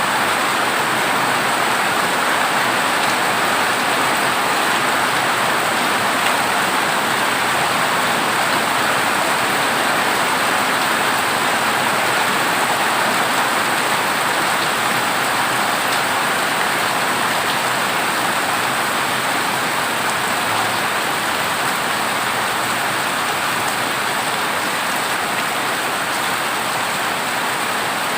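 Heavy rain falling steadily on a corrugated zinc roof, a dense, even patter with no change in level.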